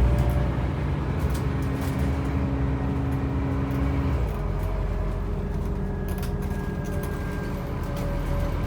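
Scania N270UB OmniCity bus's five-cylinder diesel engine running, its low note steady, with a humming tone that stops about four seconds in.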